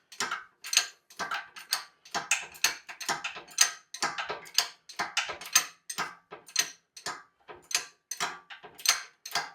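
Repeated sharp metallic clinks and clanks, two or three a second, each ringing briefly: engine-hoist and lifting-chain hardware knocking as an engine is raised and worked clear of the truck's front axle.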